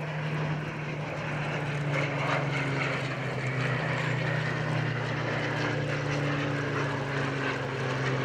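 Piston-engined propeller warplane flying past: a steady engine drone whose pitch sinks slowly.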